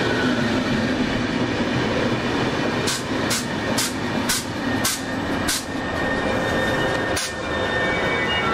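Trenitalia double-deck regional train rolling past, a steady rumble of its coaches and wheels. About three seconds in the wheels clack sharply over the track six times in quick succession, with one more clack near the end.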